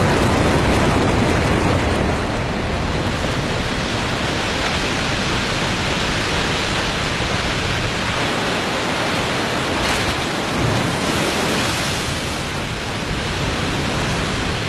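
Alexandra Falls on the Hay River pouring over its 35-metre drop in spring breakup, the water thick with mud and broken ice: a loud, steady rush of falling water.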